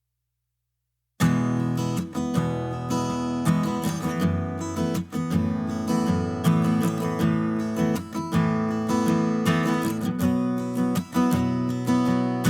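Background music of strummed acoustic guitar, starting after about a second of silence.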